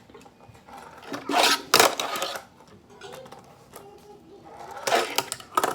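Plastic toy parts and packaging being handled: rattling and rustling in two bursts, about a second in and again near the end.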